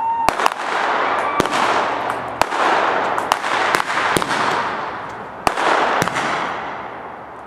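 Fireworks going off: a whistle cut off by a sharp bang just after the start, then a string of about eight more loud bangs over a dense crackling hiss that swells and fades between them.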